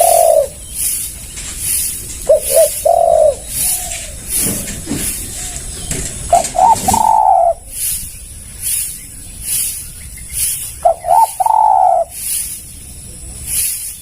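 Spotted dove (tekukur) cooing: about four phrases a few seconds apart, each two or three short notes running into a longer held coo.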